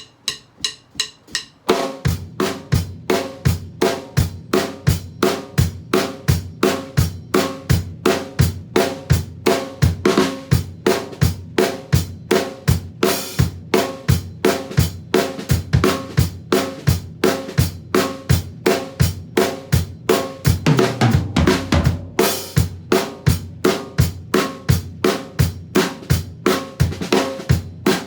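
Drum kit playing a groove with quarter notes on the bass drum and heavily swung eighth-note figures around the rest of the kit. It starts with light strokes alone, and the full kit comes in about two seconds in. A fill leads into a cymbal crash about three-quarters of the way through.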